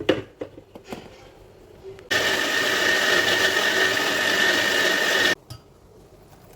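An electric mixer grinder runs in one burst of about three seconds with a steady whine, starting and stopping abruptly. A few clicks and knocks come first, in the opening second.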